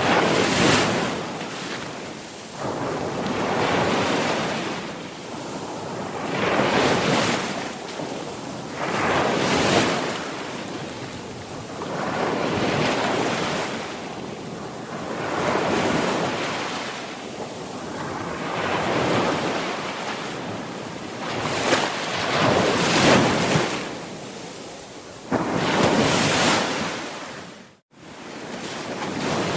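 Sea waves breaking one after another, the surf swelling and falling back about every three seconds. Near the end the sound cuts out for an instant.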